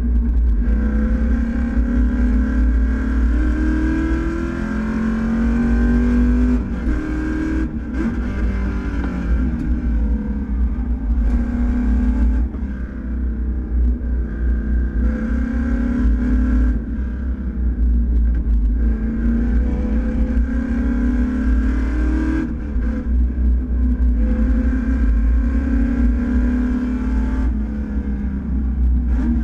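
Race car engine pulling hard through the gears: its pitch climbs over a few seconds, drops at each change or lift, and climbs again, over and over. A heavy low rumble runs underneath.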